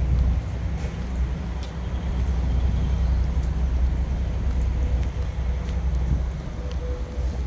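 Heavy diesel truck engine running with a low, steady rumble.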